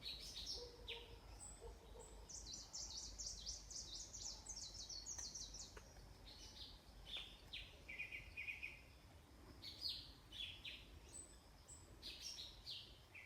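Faint birdsong: small birds chirping and trilling with short high notes, including a quick run of rapid notes a couple of seconds in.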